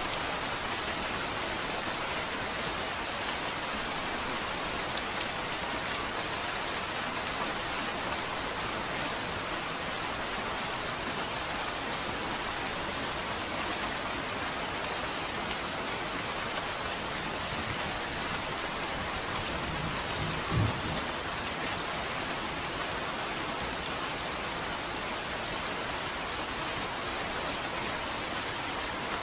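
Steady rain falling, an even hiss of drops on a surface. About two-thirds of the way through comes a single brief low thump.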